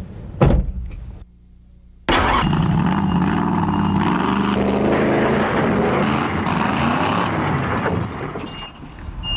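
A sharp knock near the start, then a monster truck's engine bursts into sound about two seconds in and runs loud, its pitch shifting up and down as it is driven, easing off near the end.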